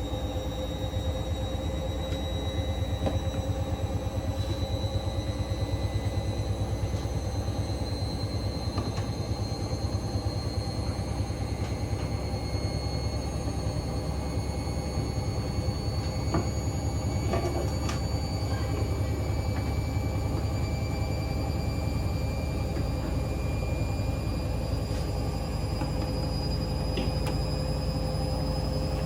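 Hoover Link washing machine in its 1400 rpm spin-only cycle: the drum spins at high speed with a steady low rumble and a motor whine that climbs slowly in pitch.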